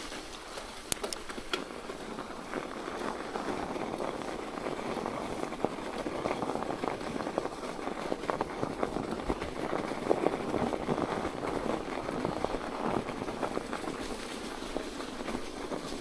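Mountain bike tyres crunching over a pea-gravel trail with patches of snow: a dense, crackly rolling noise that fills in after the first couple of seconds, with a few sharp clicks about a second in.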